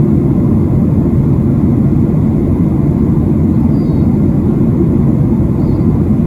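Steady low roar inside the cabin of a Boeing 737-700 during descent: the CFM56 engines and the rush of air along the fuselage, heard from a passenger seat.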